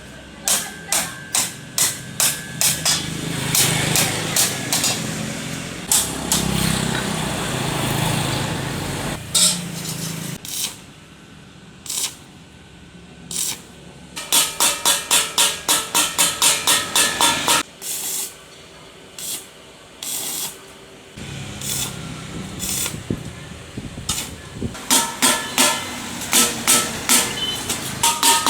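Repeated hammer blows on metal, about three to four a second, in several runs, with a few seconds of steady hissing between them.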